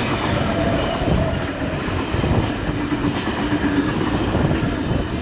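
Eight-car V set double-deck electric intercity train passing through the station, with a continuous loud rumble of wheels on rail and a faint steady hum.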